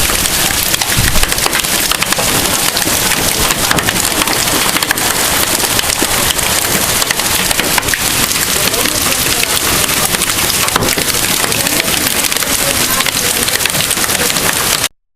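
Hail and heavy rain pelting hard surfaces: a loud, steady clatter of countless sharp ticks over the hiss of the downpour.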